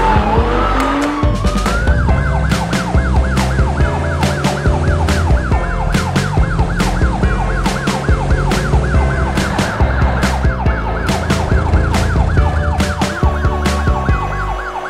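Police siren sound effect in a fast, repeating yelp, over background music with a steady beat; a few sliding pitch glides come just before the siren starts.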